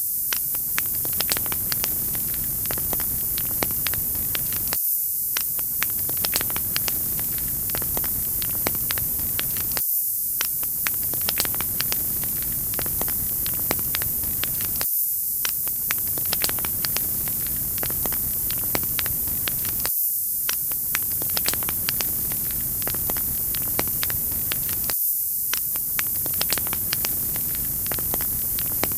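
Wood fire crackling: dense, irregular pops and snaps over a steady hiss. The track is a short loop, with a brief dip in the lower sound about every five seconds.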